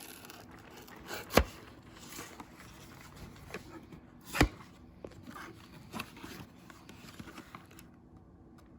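Cardboard food box being worked open by hand: light scraping and rubbing, with two sharp knocks, about a second and a half in and again three seconds later.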